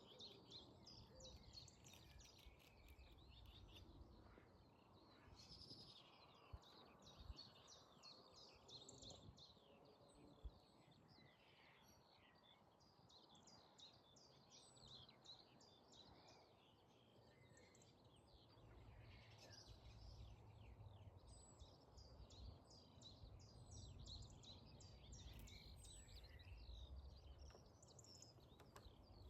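Faint birdsong: several small birds chirping and trilling in quick runs of short notes, over a low rumble.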